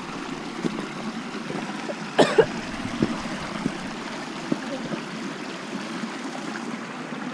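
A stream trickling and running, with a few sharp knocks or snaps about two to three seconds in.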